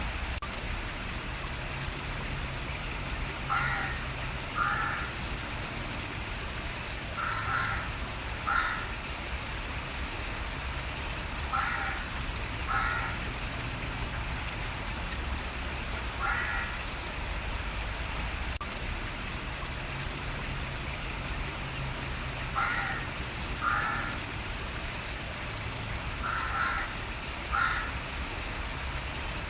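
A bird calling in pairs of short calls about a second apart, each pair coming every four seconds or so, over a steady rush of running water.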